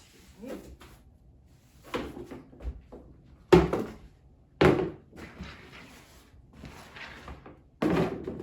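A series of sudden household knocks and thumps, the loudest three about three and a half, four and a half and eight seconds in, from things being handled and set down while cleaning.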